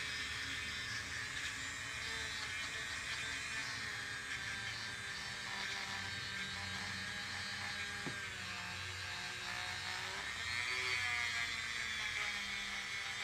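High-speed rotary tool spinning a rubber-bonded abrasive bit against a transmission case, a steady high whine. The pitch sags about eight seconds in as the bit is pressed into the metal, then rises again.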